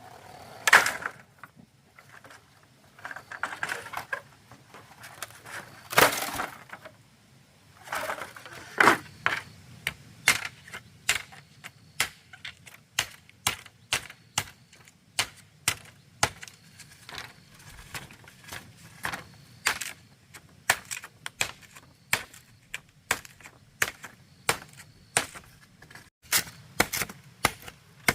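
A few irregular knocks and scrapes, then, from about a third of the way in, a steady run of sharp blows from a hand tool striking bamboo, about two a second.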